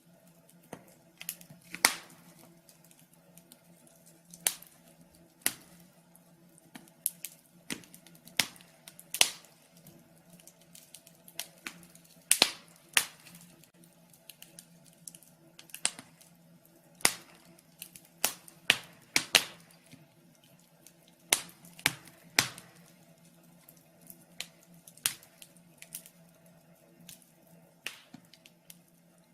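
Wood fire crackling: irregular sharp pops and snaps, some louder than others, over a faint steady low hum.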